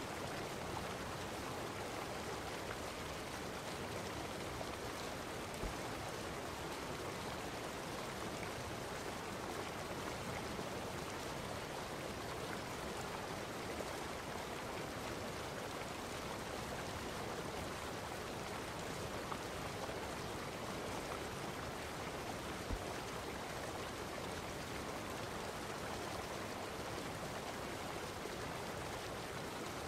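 Steady, even rush of flowing water, unbroken throughout, with a faint click or two.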